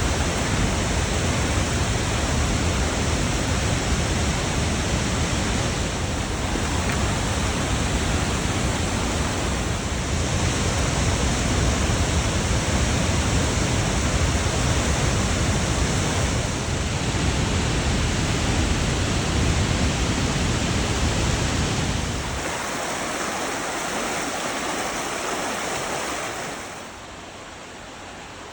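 Abiqua Falls' waterfall pouring into its pool, a steady rushing roar with a deep rumble. About two thirds of the way in the deep rumble drops out, and near the end the roar becomes quieter.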